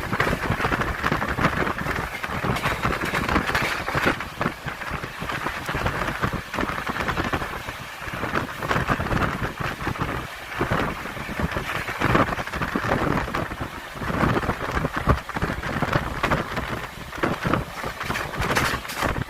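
Passenger train running, heard from aboard: a steady rushing noise with a rumble underneath and frequent irregular clattering knocks.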